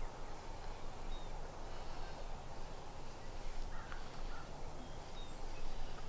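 Outdoor field ambience: a steady noise bed with a few faint, brief bird chirps scattered through it.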